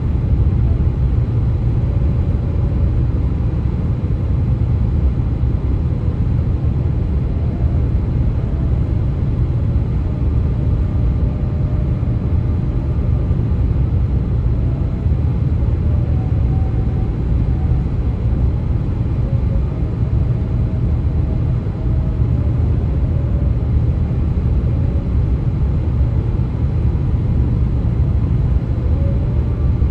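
Vehicle driving on a highway: steady low road and tyre rumble, with faint thin tones above it that come and go and waver slightly in pitch, the 'ghost noises' the road surface is said to make.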